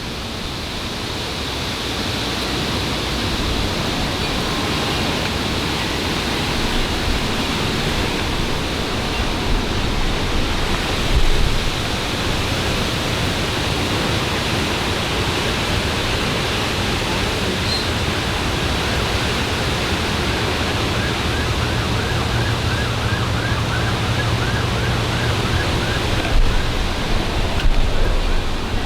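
Heavy thunderstorm rain pouring steadily, a dense even hiss. The rain surges briefly about eleven seconds in and again near the end.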